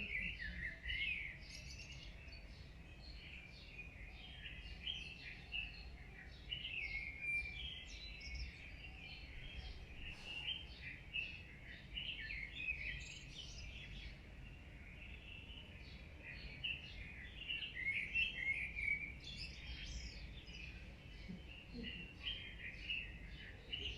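Many small birds chirping and twittering together without pause, with a faint low rumble underneath.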